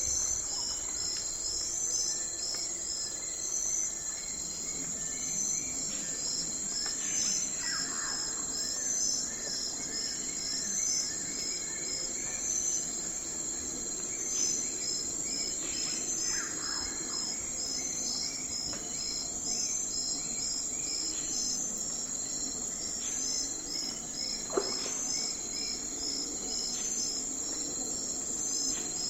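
Night forest ambience of crickets and other insects chirping steadily in a high, pulsing chorus. A few short calls slide downward in pitch, about four times. One of them, about 25 seconds in, comes with a sharp click.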